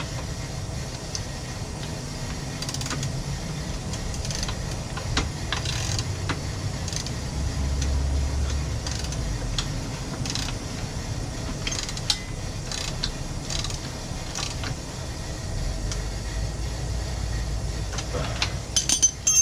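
Wrench and socket tightening the nut on the pinion gear of an electric dirt bike's brushless motor: scattered metal clicks and clinks, bunched near the end, over a steady low rumble.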